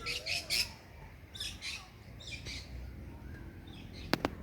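Birds calling with harsh, noisy calls: a quick run of about four at the start, then a couple more about a second and a half and two and a half seconds in. Two sharp clicks near the end.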